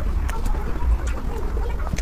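Close-miked wet chewing and lip-smacking of soft mousse cake, with many small sticky mouth clicks over a steady low rumble.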